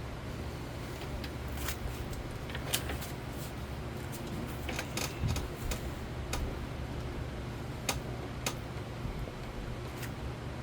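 1998 Nadair 42-inch ceiling fan coasting in its spin-down after being switched off, giving a steady low hum and air noise mixed with portable fans running. A few sharp clicks are scattered through.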